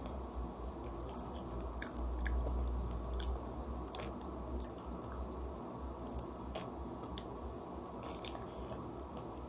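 A person biting and chewing a chocolate-coated ice cream bar, with scattered small crunches and mouth clicks.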